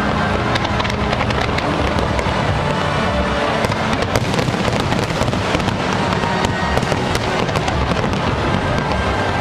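Fireworks display in full swing: a dense, continuous run of bangs and crackles from many shells bursting, growing thicker a few seconds in. Music plays underneath.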